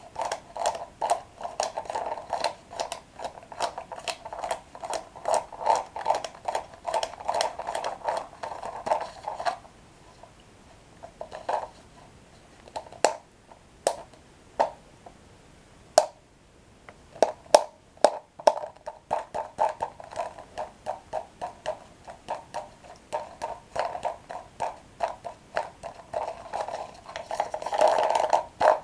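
Close-miked chewing of crunchy toasted bread sticks, a quick run of crisp crunches. It pauses for several seconds in the middle with only a few sharp clicks, then the chewing starts again.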